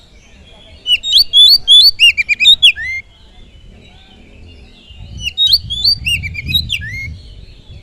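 Oriental magpie-robin (kacer) singing: two bursts of loud, rapid whistled and slurred phrases, about a second in and again about five seconds in, with softer chattering between them.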